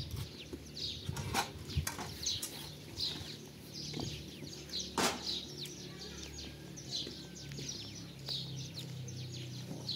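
Small birds chirping over and over in short, high, falling notes, with a few sharp clicks, the loudest about five seconds in.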